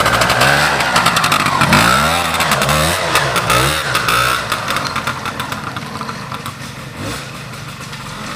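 Vintage trials motorcycle engine revving up and down several times, its pitch rising and falling, then growing quieter from about halfway and running on at a lower level.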